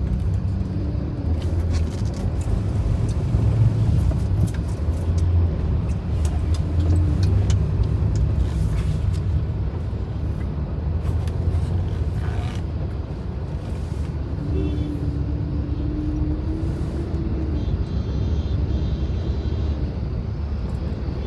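Car driving on a highway, heard from inside the cabin: a steady low rumble of engine and tyre noise. A short steady tone rises above the rumble for a couple of seconds past the middle.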